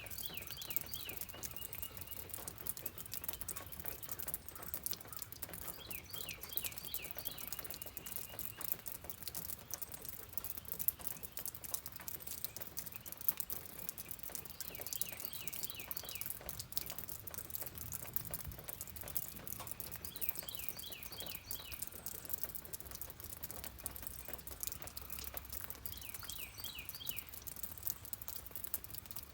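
Rain pattering steadily, with a bird singing a short phrase of quick repeated notes five times, several seconds apart.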